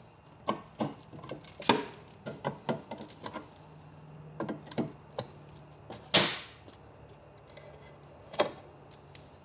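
Metal paint can and can-opener tool being handled: a run of small clicks and knocks, with one sharper metallic clack about six seconds in.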